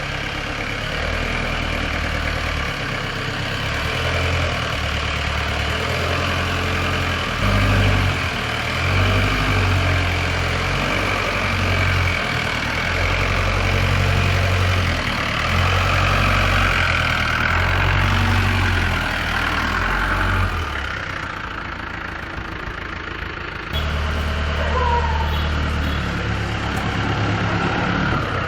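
The Peugeot diesel engine of a Mahindra 540 jeep running, its low rumble rising and falling every second or two. About three-quarters of the way through, the rumble drops away for a couple of seconds, then comes back suddenly.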